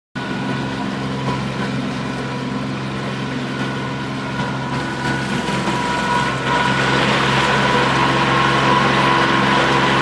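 Motorboat engine running steadily with water and wind noise; the sound grows louder and hissier about six and a half seconds in.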